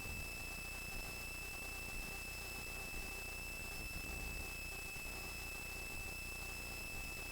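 Helicopter cabin on the ground after landing: a steady high-pitched whine over a faint low rumble.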